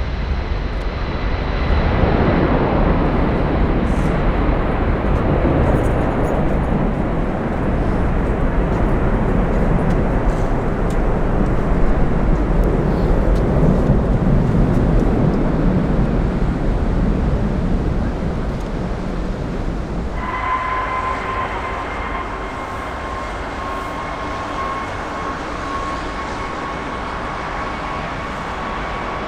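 Jet airliner engines: a loud rushing roar that swells about two seconds in and holds, easing off after about eighteen seconds. About twenty seconds in, a steady high whine comes in and holds.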